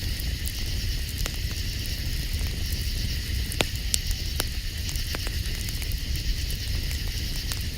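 Campfire crackling with a few sharp pops in the middle, over a steady chorus of night insects and a low rumble.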